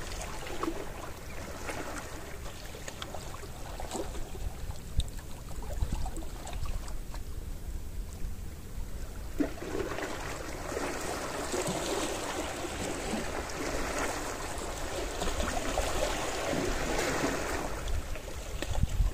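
Gentle sea waves washing onto the shore, easing into a quieter lull before a larger wave washes in about halfway through and stays louder.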